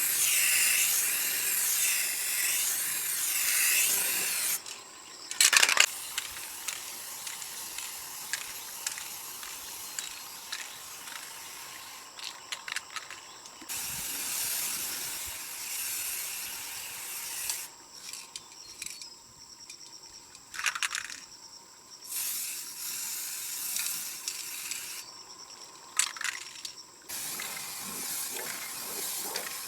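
Hissing spray that stops and starts in stretches of a few seconds, loudest for the first four seconds, with a few sharp clicks in between.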